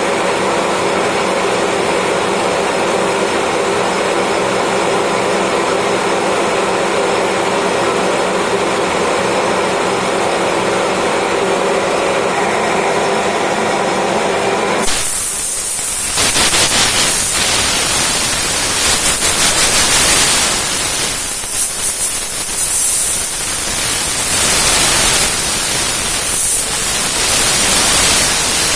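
Lathe turning acrylic: the machine first runs steadily with a hum of several tones, then about halfway through the sound changes abruptly to a loud hiss that swells and dips.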